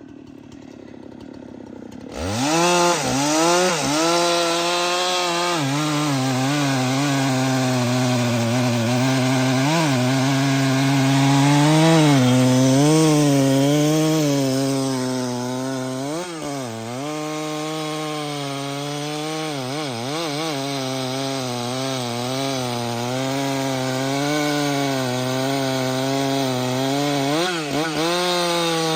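Chainsaw revving up from a low idle about two seconds in, then running at high speed while cutting a tree. The engine note wavers and dips briefly several times under load.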